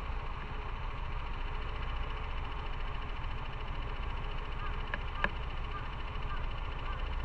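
Motorcycle engine running steadily under a constant low rumble of road and wind noise, with a single sharp click about five seconds in and faint repeated chirps after it.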